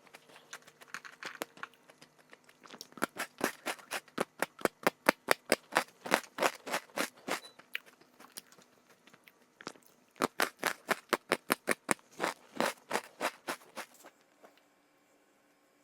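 Crunchy strawberry snack being chewed close to the microphone: rapid crisp crunches, several a second, in two long runs that stop about 14 seconds in.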